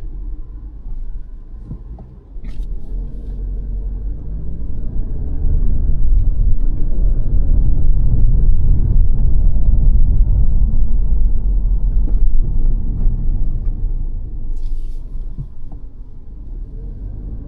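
Low rumble of engine and tyre noise heard inside the cabin of a 2022 Mazda 3 saloon while driving. It grows louder about two seconds in, as if the car is picking up speed, and eases off again near the end.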